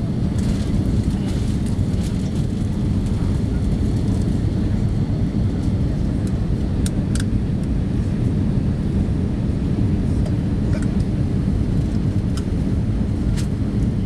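Steady roar of an Airbus A318 heard from inside the passenger cabin on approach to landing: a deep, even rush of engine and airflow noise with a low hum, and a few faint clicks.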